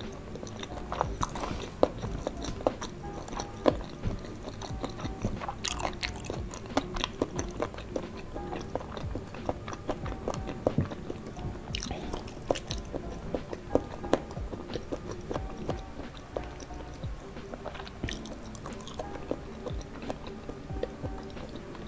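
Close-up chewing and mouth sounds of someone eating soft, saucy boneless chicken feet and nori rice balls, with many short wet smacks and clicks, over soft background music.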